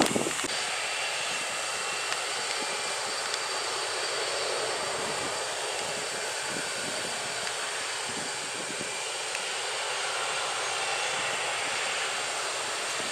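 Boeing 737's jet engines idling while the airliner waits on the ground: a steady rush with a faint high whine.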